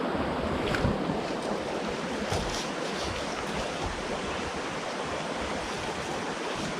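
Steady rushing noise with a fluttering low rumble, like wind buffeting the microphone, with a few faint ticks about one and two and a half seconds in.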